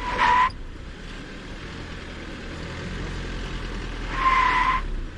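Jeep tyres spinning and squealing in two short bursts, one at the start and a longer one about four seconds in, with the engine running low underneath. The Jeep is high-sided on the trail and its wheels are losing traction as it tries to climb off.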